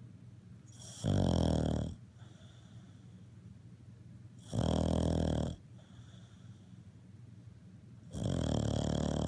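Cavalier King Charles Spaniel snoring in its sleep: three loud, rattling snores about a second long, roughly every three and a half seconds, with faint breaths between.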